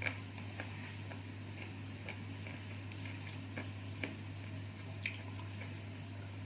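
Small, irregular wet clicks and squishes of a person eating and chewing, over a steady low electrical hum.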